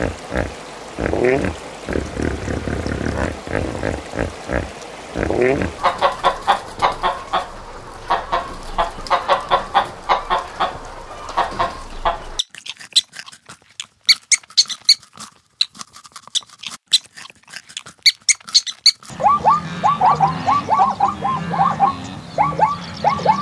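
A run of different animal calls that changes every few seconds. It starts with low sounds with short rising glides, then quick repeated short calls, then a stretch of high chirping, then quick repeated falling calls near the end.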